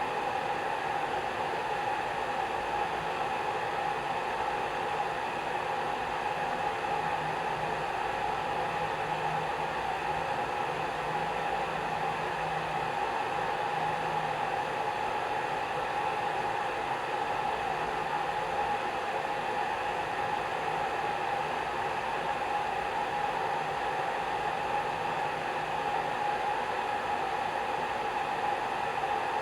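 Hair dryer running steadily with an even rushing blow and a constant motor hum.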